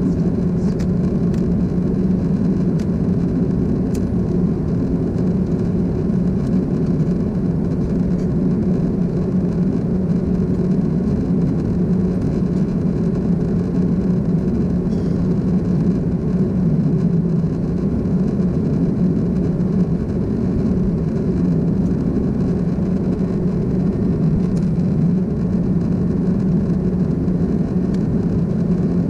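Steady low drone of an Air Europa Airbus A330-200's jet engines and airflow, heard from inside the passenger cabin in flight.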